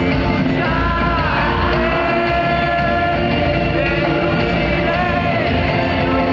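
Live rock band playing loudly with a singer holding long, sliding notes.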